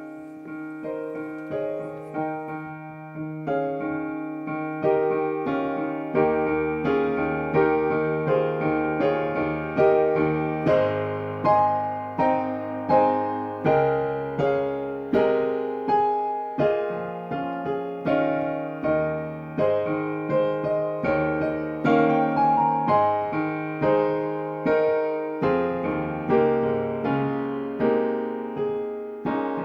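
Solo piano playing a slow, gentle piece in chords. Each chord is struck and left to fade, about one a second.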